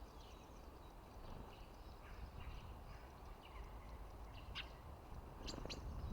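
Small songbirds chirping faintly, with short, repeated high calls and a few sharper chirps near the end, over a low background rumble.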